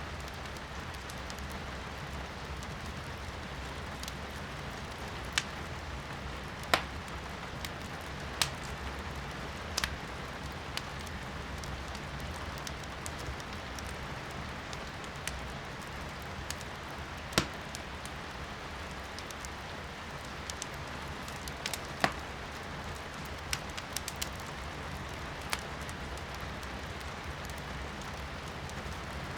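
Firewood crackling in a fireplace, with sharp pops at irregular moments, the loudest about a third of the way in, just past halfway, and about three quarters of the way through, over a steady hiss of rain.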